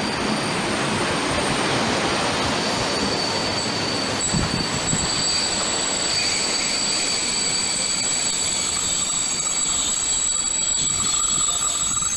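Container freight train's flat wagons rolling past close by, a steady loud rumble and rattle of wheels on rail, with a high-pitched wheel squeal that grows stronger a few seconds in and holds.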